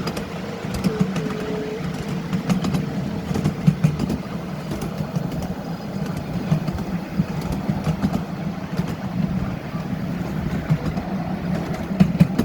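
Miniature railway train running: a steady low mechanical drone with scattered sharp clicks.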